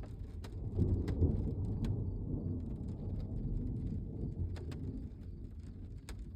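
Thunder rumbling low, swelling about a second in and rolling on for several seconds. Scattered raindrops tick on the truck through the rumble.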